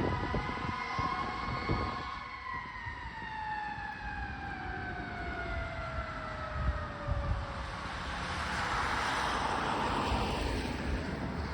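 Fire engine siren holding a steady tone, then winding down with its pitch falling slowly over about six seconds. Heavy engine rumble underneath at the start, and a broad rushing swell of vehicle noise near the end.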